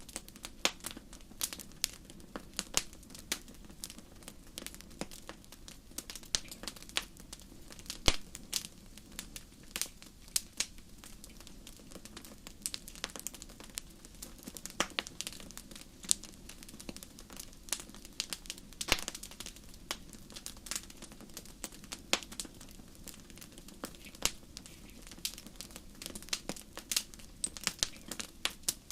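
Wood fire crackling and popping steadily, with frequent irregular sharp snaps over a soft low rush of flame.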